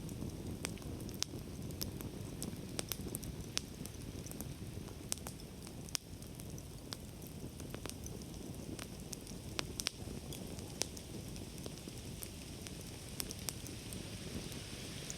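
Wood campfire crackling, with irregular sharp pops and snaps over a steady low rush of burning flames.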